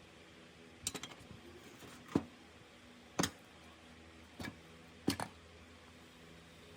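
A series of sharp knocks and clicks, about one a second, some of them doubled, as parts and hand tools are handled and set down, over a faint steady hum.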